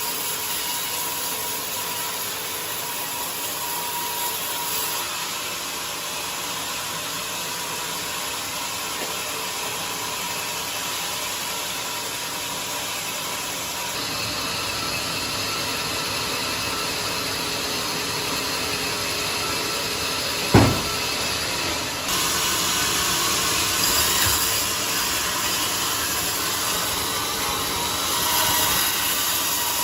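Band sawmill running steadily, its blade sawing through a jackfruit log, the sound growing brighter about halfway through and again later. A single sharp knock comes about two-thirds of the way through.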